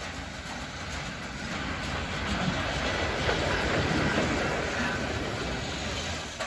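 Freight train rolling past on the rails. The noise of the passing cars swells to a peak about three to four seconds in, then fades.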